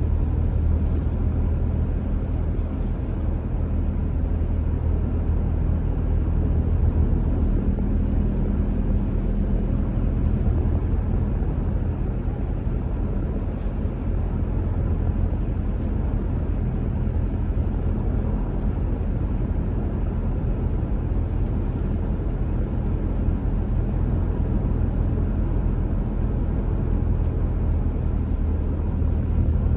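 A car driving at steady speed: continuous low rumble of tyre and road noise with engine hum.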